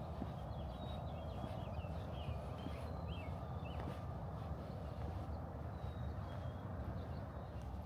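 Small wild birds chirping in a quick run of short up-and-down notes for the first few seconds, then a few thin, high whistled notes later on, over a steady low rumble.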